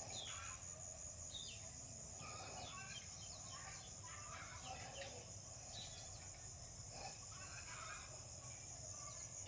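Outdoor ambience of chickens clucking and birds calling in short, scattered calls over a steady high-pitched insect buzz.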